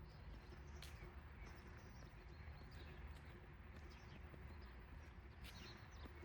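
Faint outdoor morning city ambience: a low steady hum with small birds chirping now and then, and a couple of sharp clicks, one about a second in and one near the end.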